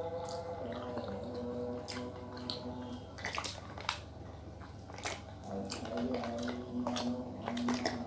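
Scattered short clicks and wet mouth sounds of someone eating over soft background music with long held notes. The clicks come singly, several seconds apart, with a small cluster a little past three seconds in.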